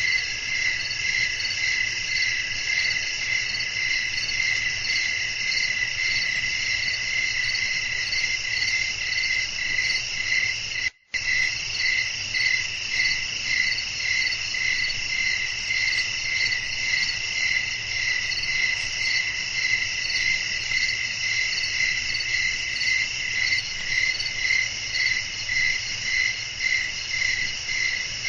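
A night chorus of crickets chirping steadily, several high trilling voices layered together, one pulsing evenly at about one and a half chirps a second. The sound cuts out completely for a split second about eleven seconds in.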